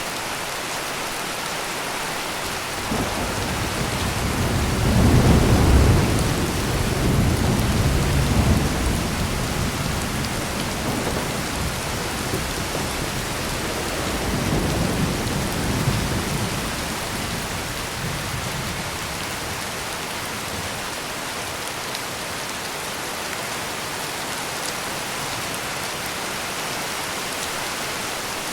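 Heavy rain pouring steadily, with rolling thunder: a deep rumble builds about three seconds in, peaks a few seconds later and rolls away, and a second, weaker rumble follows about halfway through.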